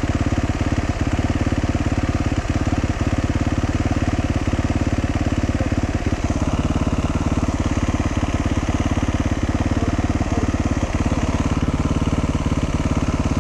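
Dual-sport motorcycle engine running steadily, with a slight change in tone about six seconds in.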